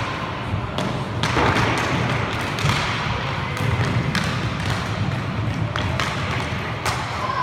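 Inline hockey play: irregular sharp clacks and thumps of sticks, puck and skates over a steady background of rink noise.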